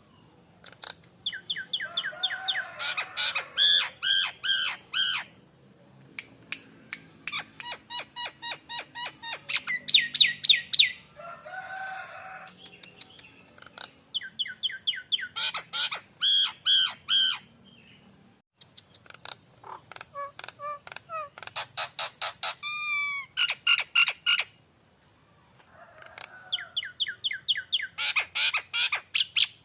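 Jalak nias, a starling kept as a cage songbird, singing in bouts of rapid, sharp repeated notes mixed with whistles. About five bouts of a few seconds each come with short pauses between them.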